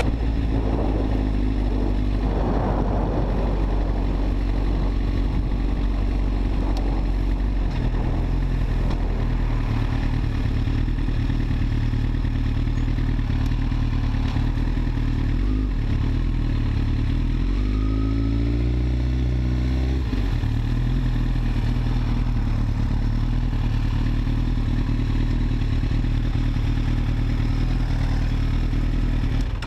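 Motorcycle engine running steadily while riding, heard from on the bike, with road and wind noise. The engine note shifts a few times, with a short rising sweep a little past halfway.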